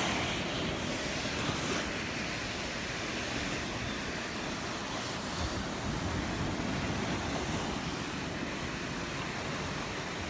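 Small Gulf of Mexico waves washing onto the beach: a steady, even rush of surf.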